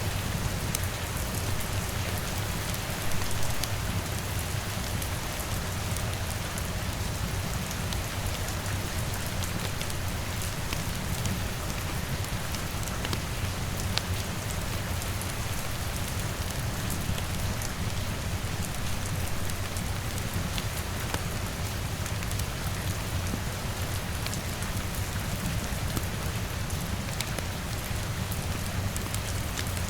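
Steady rain on a window, an even hiss with scattered small ticks of drops and a low rumble underneath, swelling briefly about three seconds in.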